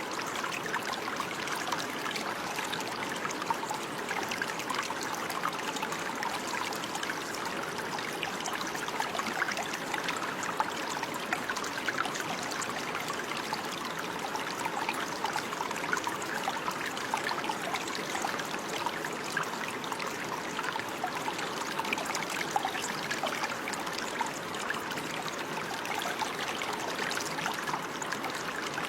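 Running water, a stream trickling and babbling steadily with fine splashing.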